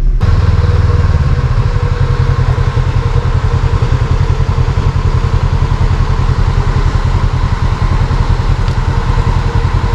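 Engine running steadily close by: a deep, evenly pulsing rumble with a faint steady whine over it, a little louder for the first second or so.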